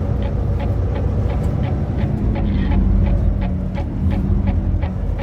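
Semi truck's diesel engine running steadily, heard from inside the cab, with a light regular ticking about two or three times a second.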